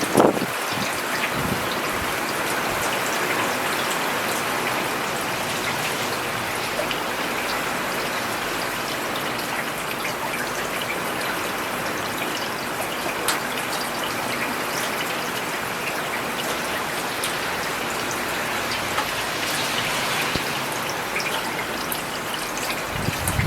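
Steady rain falling on a paved road, a dense even hiss with many small drop ticks scattered through it. A brief low rumble swells at the very start.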